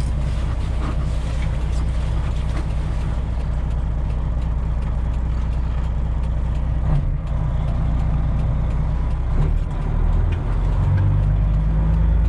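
Freightliner Classic semi truck's diesel engine running as the truck maneuvers at low speed, heard from inside the cab. The engine note shifts about seven seconds in and again near ten seconds, running a little louder near the end.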